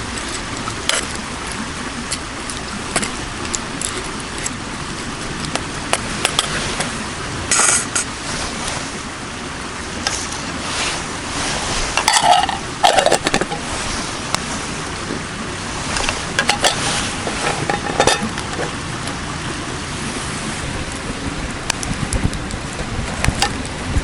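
Metal cookware and utensils clinking and scraping, with scattered sharp clicks over a steady noisy background. A louder cluster of ringing clinks comes about halfway through.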